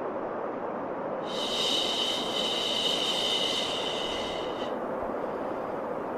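Steady white noise with a long, drawn-out "shhh" shushing sound laid over it, starting about a second in and lasting about three and a half seconds, then beginning again just after the end.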